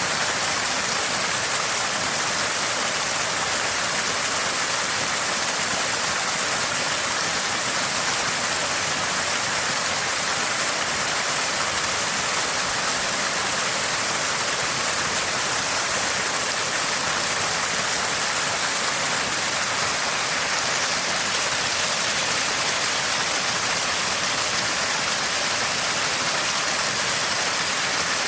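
Small spring spouting fresh water, a constant gurgling and splashing that stays even and unbroken, with a bright, hissy character.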